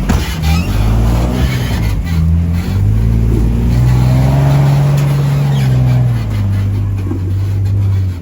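Off-road 4x4's engine running under load while rock crawling, its pitch rising and falling as the throttle is worked and easing off near the end, with a few sharp knocks near the start.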